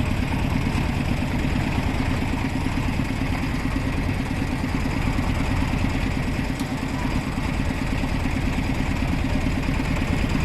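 Vintage engine running steadily at an even speed, a continuous low mechanical chugging.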